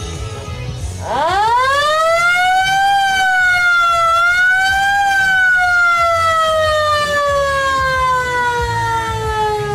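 A siren starting about a second in, climbing quickly in pitch, dipping briefly and rising again, then sliding slowly down in one long falling wail.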